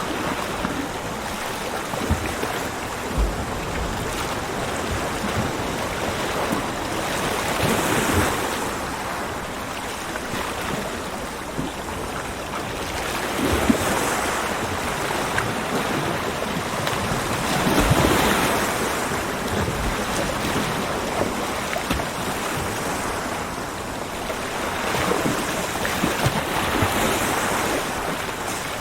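Ocean waves breaking on a beach: a continuous wash of surf that swells and falls back every few seconds.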